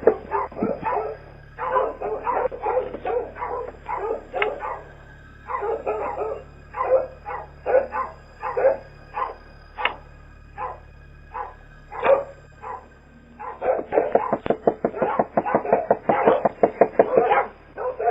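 A dog barking rapidly and repeatedly, several barks a second, in runs broken by brief lulls.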